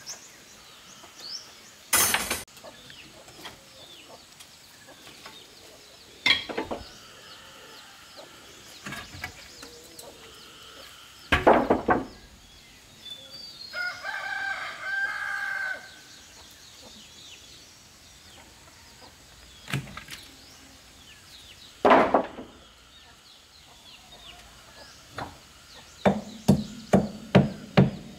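A rooster crows once near the middle, about two seconds long, with small birds chirping faintly. Sharp single knocks come every few seconds and are the loudest sounds, and a quick run of about eight strikes begins near the end.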